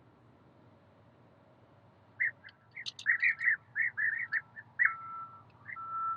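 A bird calling: after a quiet start, a quick run of short, high chirps about two seconds in, with a thin steady tone held under the later calls.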